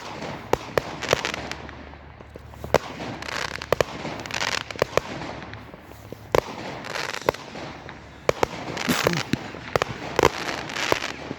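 Fireworks going off: irregular sharp bangs, some in quick clusters, among spells of noisy hiss and crackle.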